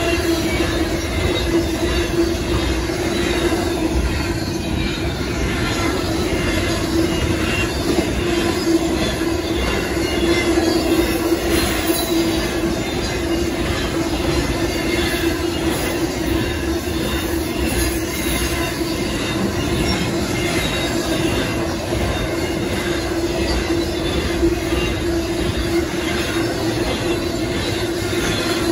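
Intermodal freight train's container and trailer cars rolling past steadily over the rails, wheels rumbling and clattering, with a steady tone running under it throughout.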